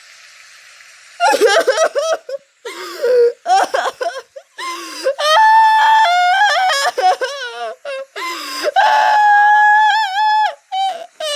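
A high-pitched voice crying and wailing, in broken sobs with two long, drawn-out wails, starting about a second in.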